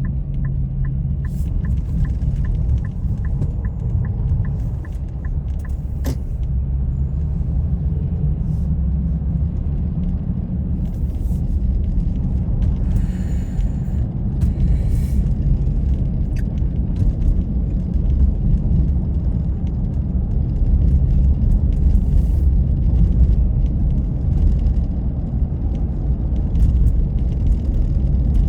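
Steady low rumble of a car driving, with a quick, regular light ticking for the first six seconds or so.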